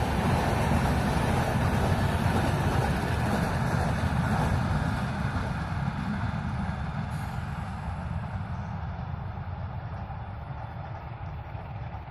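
Passenger train of LHB coaches rolling past at speed, a steady rumble of wheels on the track that fades from about five seconds in as the last coaches draw away.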